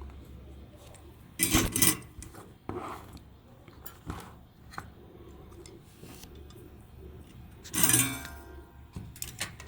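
Clinks, clicks and scrapes of small hard objects being handled, with two louder, harsher bursts, one about a second and a half in and one about eight seconds in.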